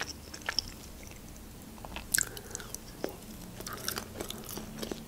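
Close-up chewing of fried pelmeni, with quiet, irregular wet mouth clicks and smacks; a couple of louder smacks come around the middle.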